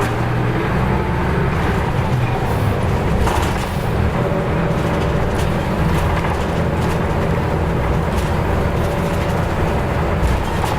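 Nissan Diesel U-UA440LSN city bus's diesel engine running steadily under way, with road noise, recorded as the bus drives.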